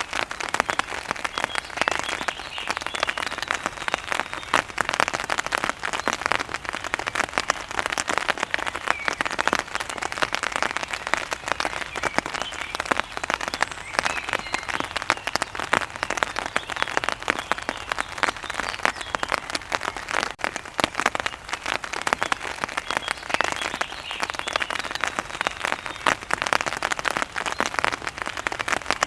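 Steady rain falling on a hard surface, a dense patter of close drops with no let-up.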